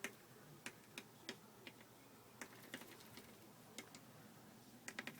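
Faint, irregular taps of a small finch's beak pecking at a pane of window glass, a dozen or so scattered sharp clicks.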